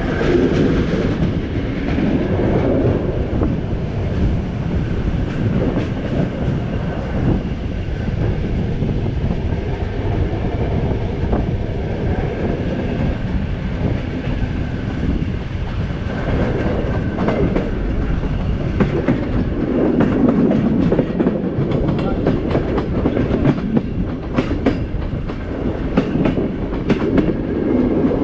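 Passenger train running, heard from an open carriage window: a steady rumble of wheels on rail, with sharp clicks from the track that come more often in the second half.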